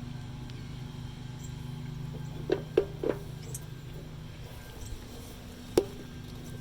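Steady low electrical hum, with three quick sharp clicks about two and a half seconds in and one more near the end, as from a small tool or metal part being handled.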